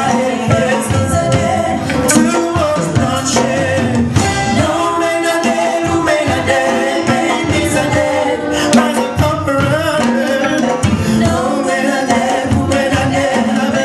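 Band music with a singer's voice over it, steady and loud, with drums and light hand percussion keeping the beat.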